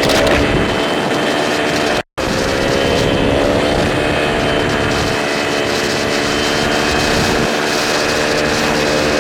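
Paramotor engine and propeller running steadily at high power over a wash of wind noise, the engine note drifting slightly in pitch. The sound cuts out for an instant about two seconds in.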